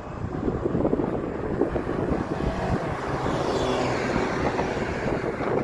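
A vehicle passing, with a whine that falls in pitch about halfway through, over wind rumbling on the microphone.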